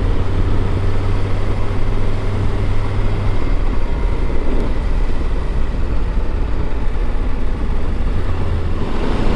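Motorcycle engine running at a steady road speed, with wind rushing over the rider-mounted microphone; the low engine note eases off about a third of the way in and comes back strongly near the end.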